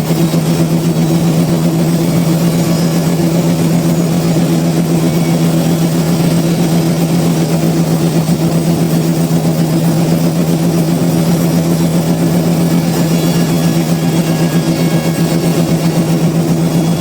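Sawmill machinery running at a constant speed: a loud, steady hum at one unchanging pitch, with no cutting or change in load.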